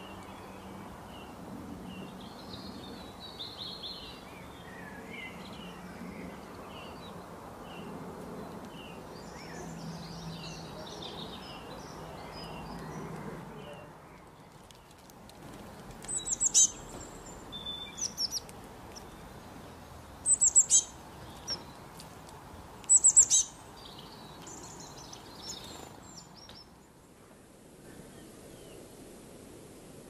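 Birds chirping and calling outdoors: many small high chirps from several birds over a steady background for the first half, then a few loud, sharp high chirps in quick clusters about midway, after which it turns quieter.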